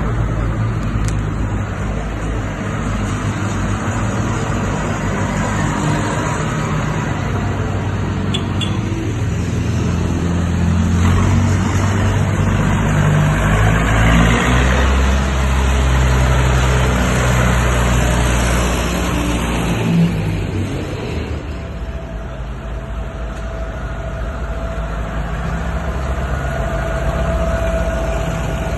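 Tractor engine running, louder through the middle and easing off after about twenty seconds.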